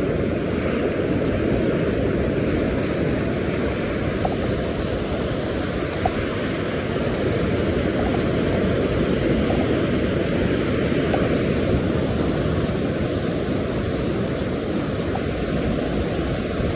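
Steady rumble of wind buffeting the microphone, mixed with surf washing on the beach.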